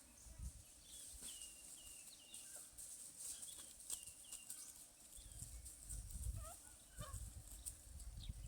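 Short, high animal calls, each falling in pitch, repeated every half second or so over a steady high hiss. A low rumble joins about five seconds in.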